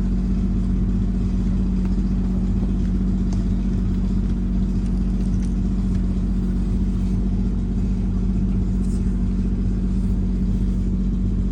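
A 1/8-scale ride-on model locomotive's motor running with a steady, even drone that holds one pitch.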